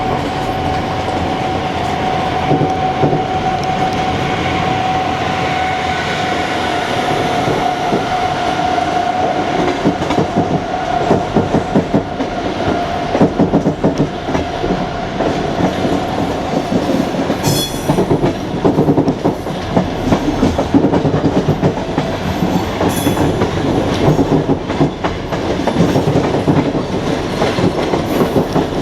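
Passenger train wheels clattering over the rail joints, heard from the carriage window. A steady high tone rides over the rumble for the first ten seconds or so, then fades. After that the clatter comes in stronger, uneven pulses.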